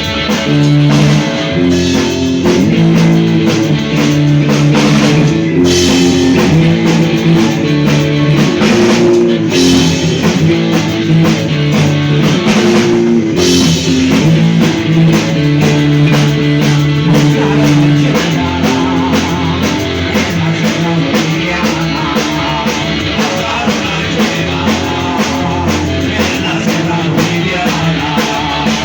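Live rock band playing loud: distorted electric guitar chords changing every second or two over a pounding drum kit.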